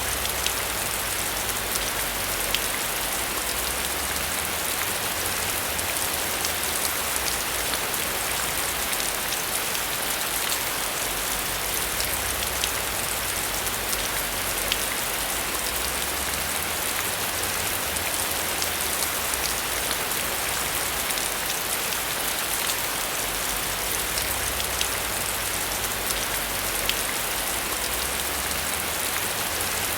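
Steady rain falling on a surface, with a dense patter of individual drops ticking over a hiss. A low rumble underneath swells and fades.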